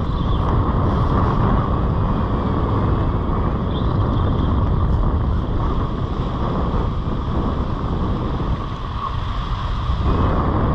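Wind buffeting the microphone over the wash of surf on the beach: a steady, loud rushing noise, heaviest in the low end.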